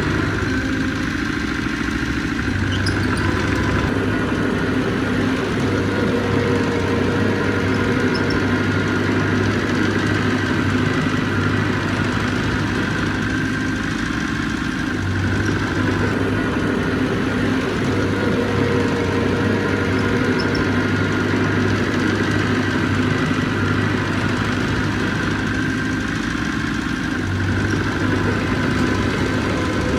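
Heavy diesel engine of a construction machine running steadily, its low note shifting about every twelve seconds as the load changes.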